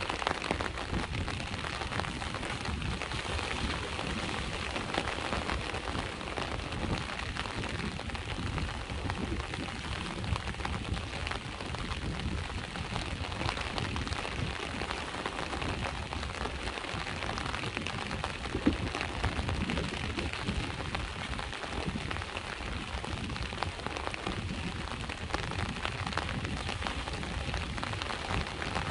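Steady rain falling in many fine drops, over the low, even wash of sea waves.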